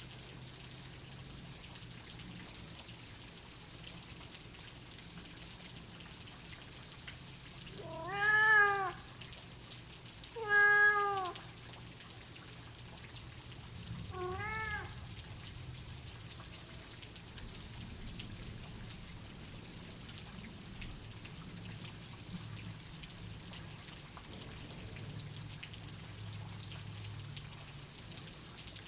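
Steady rain with a domestic cat meowing three times about a third of the way in, each meow about a second long, rising then falling in pitch, the last one quieter. A faint low rumble sits under the rain.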